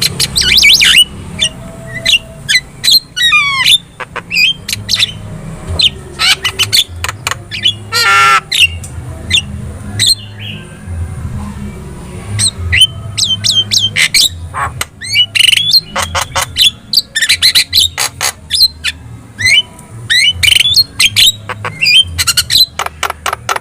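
Javan myna (jalak kebo) in full song: a long, varied run of sharp squawks, whistles and chattering calls delivered in quick bursts with short pauses, including a rattling warbled phrase about eight seconds in. A steady low hum runs underneath.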